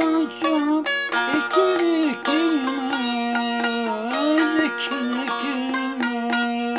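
A Turkish folk tune played on a bağlama with quick plucked strokes and a sustained melody line that slides up and down between notes.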